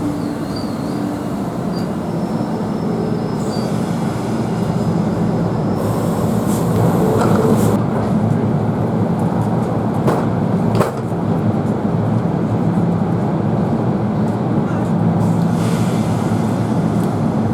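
NJ Transit commuter train running through the station, a steady rail rumble that grows a little louder, with two sharp clicks about ten seconds in.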